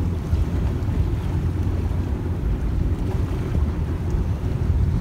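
Wind buffeting the microphone as a steady low rumble, over the wash of choppy water around the boat.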